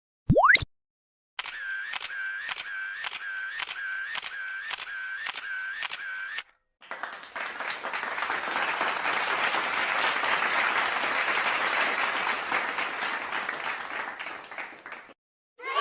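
Stock sound effects played one after another: a brief loud rising sweep, then a run of about a dozen evenly spaced clicks, about two a second, each with a short tone, then about eight seconds of applause-like clapping noise.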